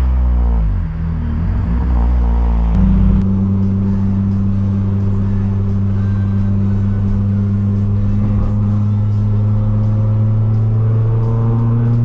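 Citroën C2 VTS's 1.6-litre 16-valve four-cylinder petrol engine on the road: its revs drop at the start, then after about three seconds it settles into a steady drone at an even speed.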